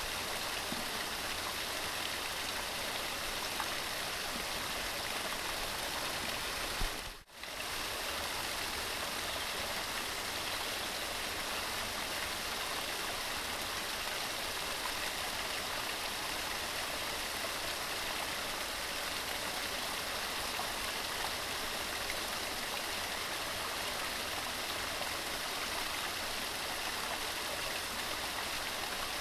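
Mountain stream running steadily, a dense, even rush of water. There is a momentary break in the sound about seven seconds in.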